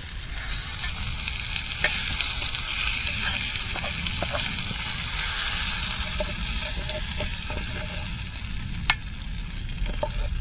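Piri piri chicken thighs sizzling steadily in a pan over a BCB stove burning Fire Dragon gel as the stir fry is dished up. A few clicks of a utensil against the pan come through, with one sharp click near the end.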